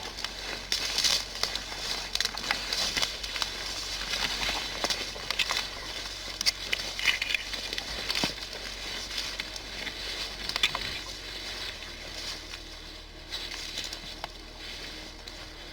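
Irregular crackling and rustling with scattered sharp snaps, growing sparser and quieter in the last few seconds.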